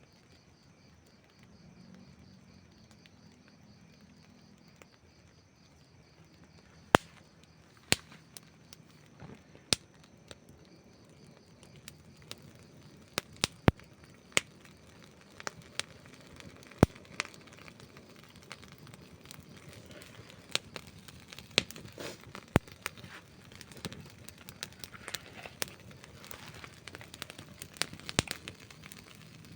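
Wood campfire crackling: irregular sharp pops and snaps over a low hiss, the loudest snap about seven seconds in, with the pops coming much more often in the second half.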